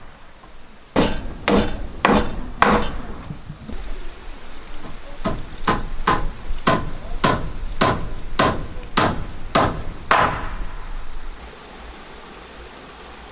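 Hammer blows on wood, about two a second: four strokes, a short pause, then a steady run of about ten strokes that stops about ten seconds in.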